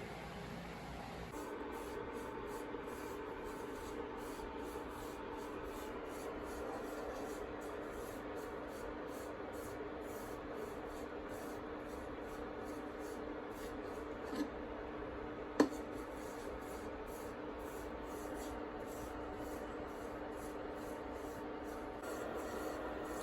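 Sticky rice cake slices frying in oil, a steady sizzle with a steady hum underneath. Two sharp clicks come about fourteen and fifteen seconds in.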